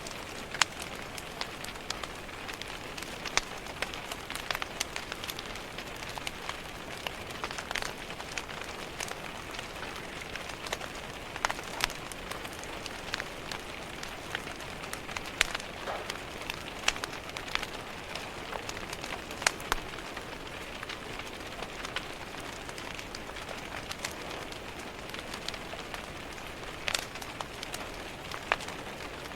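Steady rain with a crackling wood fire: an even hiss of rain with sharp, irregular pops and crackles from the burning logs scattered throughout.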